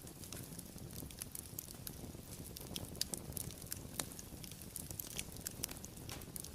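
Fire crackling: a steady low rush of flames with scattered sharp pops and snaps, two louder pops about three and four seconds in.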